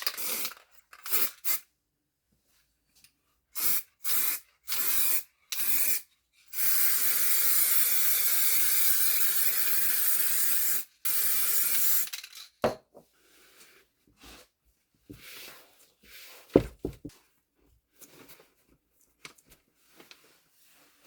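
Aerosol spray adhesive hissing from the can: four short spurts, then a long steady spray lasting about five seconds with one brief break, as glue is sprayed onto seat foam and fabric. After it come quieter handling rustles and two sharp knocks.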